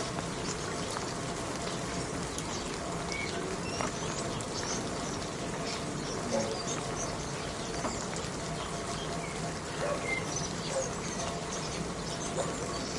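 Steady rain falling, with scattered drops ticking and small birds giving short chirps throughout.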